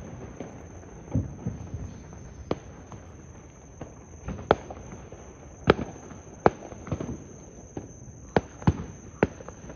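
Fireworks going off in the distance: a dozen or so sharp pops at irregular intervals, a few of them louder than the rest.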